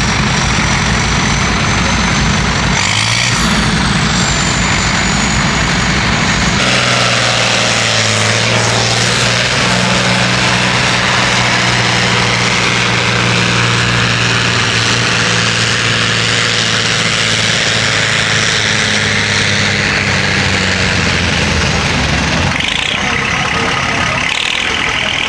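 Tractor-pulling engine running loud and steady at high revs, with a thin high whistle above it; the sound changes abruptly twice early on, as between different runs.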